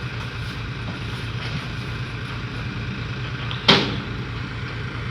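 Heavy diesel engine running steadily with a low, even rumble, and one loud bang a little under four seconds in.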